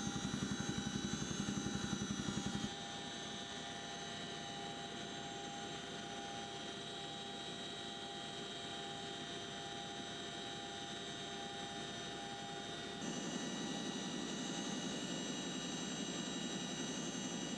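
CH-47 Chinook helicopter running steadily: a high turbine whine over a fast rotor beat. It drops abruptly quieter about three seconds in and comes back louder near the end.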